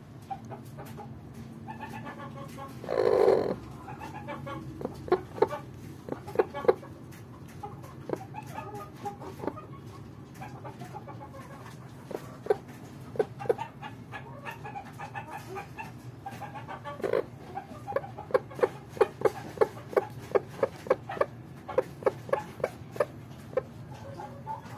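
Hen clucking in short repeated calls, with one longer, louder call about three seconds in. Later the clucks come quickly, a few a second, for several seconds.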